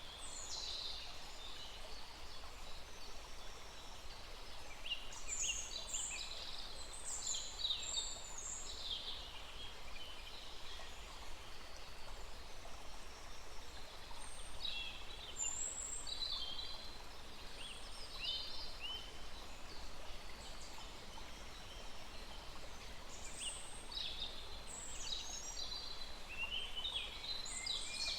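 Several small birds chirping and singing in bursts of quick, high notes every few seconds, over the faint steady rush of a small stream.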